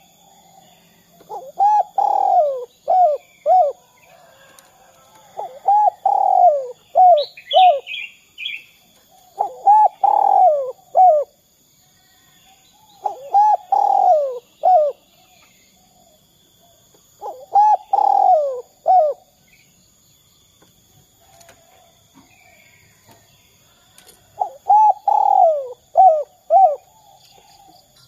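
Spotted dove (derkuku) cooing its song over and over, six phrases roughly four seconds apart, each a few short coos around a longer one and ending in two quick notes, the 'kuk 2' song type. A smaller bird chirps briefly about seven seconds in.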